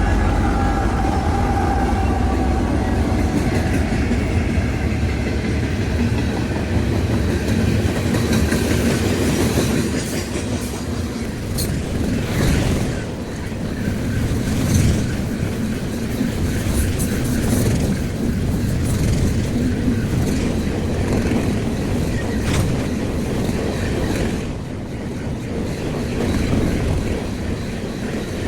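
Freight train rolling past with a steady heavy rumble, its wheels clacking over rail joints, and a faint wheel squeal fading out at the start.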